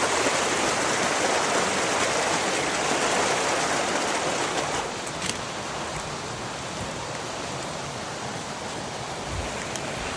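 Rushing of a river running heavy in the rain, a steady wash of water noise that eases slightly about five seconds in.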